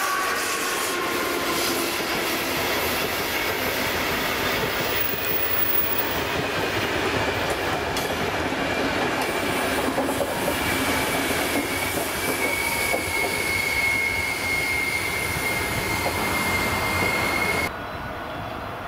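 Passenger coaches rolling past on curved track, a steady rumble of wheels on rail. From about halfway a steady high wheel squeal joins in. Near the end the sound drops abruptly to a quieter background.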